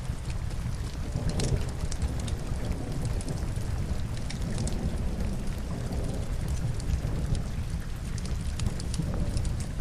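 Steady rain with a deep low rumble, mixed with scattered sharp crackles of a burning log fire.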